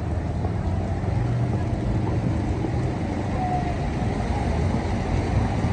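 Steady city street traffic on a rain-wet road: cars driving past in a continuous low rumble.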